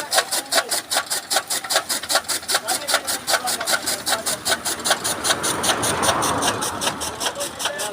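Toka chaff-cutter machine chopping maize stalks into fodder, its blades clacking in a steady rhythm of about five strokes a second.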